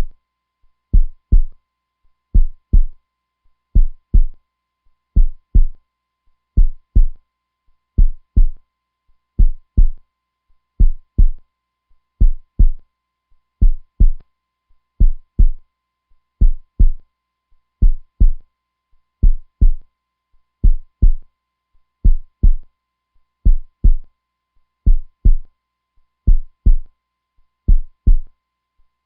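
Heartbeat sound: a steady, slow rhythm of low double thumps (lub-dub), about one beat every second and a half.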